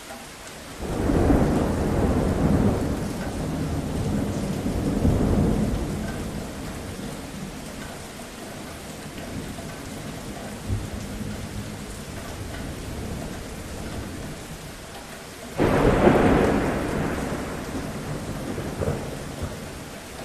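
Steady rain with two rolls of thunder: one begins about a second in and rumbles for several seconds, the other starts suddenly near the end and fades away.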